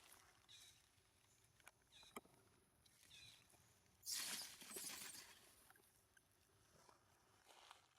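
Faint rustling and handling noise, with a louder rustle about four seconds in. A few short, faint high squeaks, typical of a baby monkey, come in the first few seconds.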